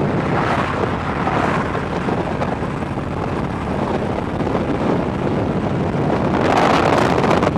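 Motorcycle engine running steadily, with wind rushing over the microphone that swells briefly about half a second in and again near the end.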